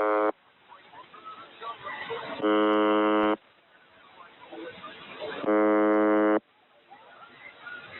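UVB-76 'Buzzer' shortwave time-signal tone received on a radio: a harsh, even buzz of about a second, repeating roughly every three seconds, with crackling radio static between the buzzes. One buzz is already under way and cuts off just after the start, and two more follow.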